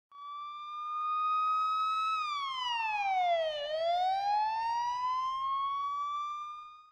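Police-style siren sound effect: one wail that holds its pitch, drops sharply over about a second and a half, then climbs slowly back up. It fades in at the start and fades out at the end.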